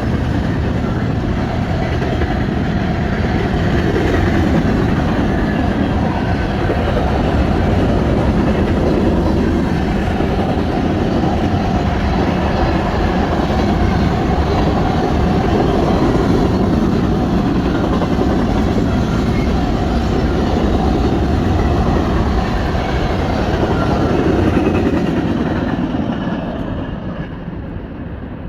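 Norfolk Southern train A95 passing close by, a loud, steady noise of locomotives and cars running on the rails, fading over the last couple of seconds.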